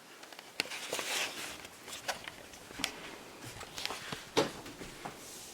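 Scattered light clicks, taps and rustling of small objects being handled, with a sharper knock about four and a half seconds in.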